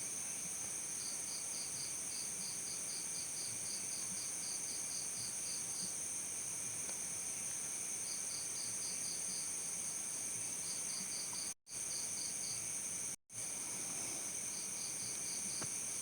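Crickets chirping in a chorus: a steady high-pitched trill, with another cricket's pulsed chirps, about three a second, coming in runs that start and stop. The sound drops out twice briefly, late on.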